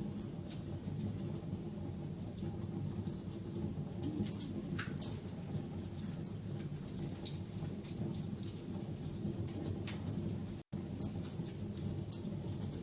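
Wood fire crackling, with frequent sharp pops and snaps over a steady low rumble. The sound cuts out for an instant about ten and a half seconds in.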